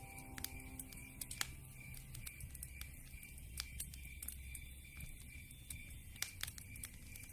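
Wood fire crackling, with irregular sharp pops and snaps over a low rumble of burning logs; the loudest pop comes about a second and a half in.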